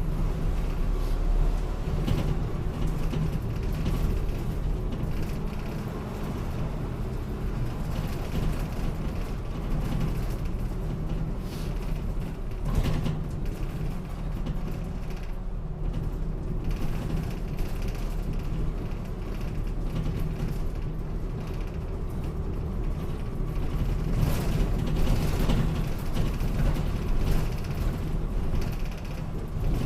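Inside a city route bus on the move: engine and road noise rumble steadily, and there is a single knock about twelve seconds in.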